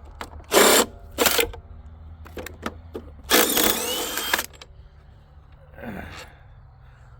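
Several sharp metallic knocks and clicks, then about a second of metal scraping with a thin rising squeal, from bolts and parts being handled while a large circuit breaker is taken apart. A steady low hum runs underneath.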